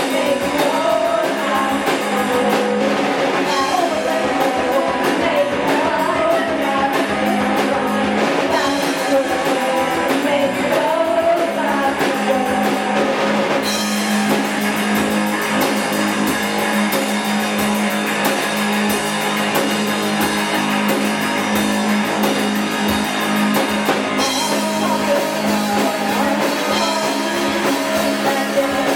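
Live rock-and-roll band playing: electric guitar, drum kit and a singer.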